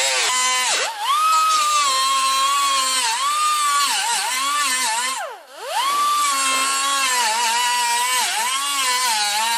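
Power grinder working rusted steel body panel: a high, whining motor note that sags each time it is pressed into the metal and picks back up. It nearly spins down about five and a half seconds in, speeds back up, and winds down at the end.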